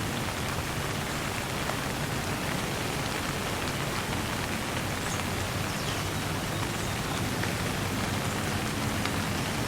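Steady light rain falling, with individual drops ticking through a continuous hiss and a low rumble underneath.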